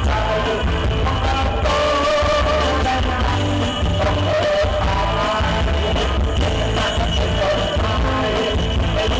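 Live rock band playing with a singer over a heavy, steady bass.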